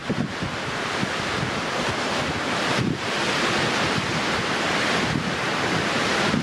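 Strong wind blowing and buffeting the microphone: a steady rushing noise with low rumble, easing briefly about three seconds in.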